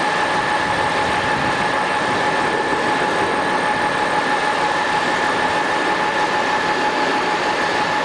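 An engine running steadily, a constant whine over a loud even rushing noise.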